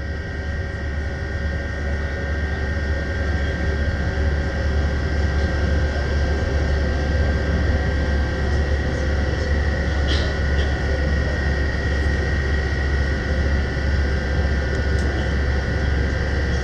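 Running noise of a passenger train heard from inside the car: a steady low rumble with a faint steady whine above it. It grows louder over the first few seconds, and there are a couple of faint clicks about ten seconds in.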